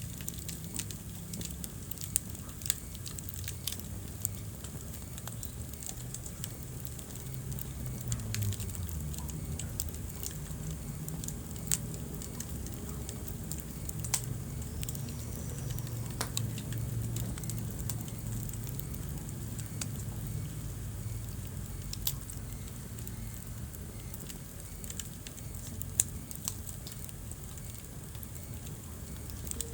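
Wood fire burning in a fireplace: a steady run of small crackles with a handful of sharp, louder pops, over a low steady rumble.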